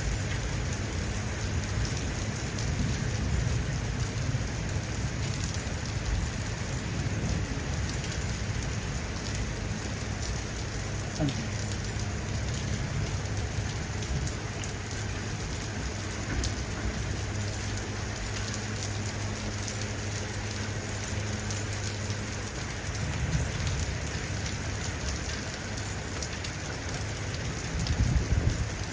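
Steady rain falling, with many small drops striking close by over a constant low hum. A louder low rumble swells near the end.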